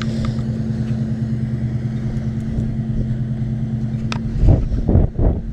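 Chevy truck engine running at a steady, unchanging pitch, with a sharp click about four seconds in and then a few loud low thumps near the end.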